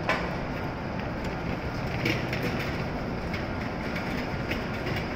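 Steady running hum of a stationary W7 series Shinkansen train standing at the platform, with a sharp click at the start and another about two seconds in.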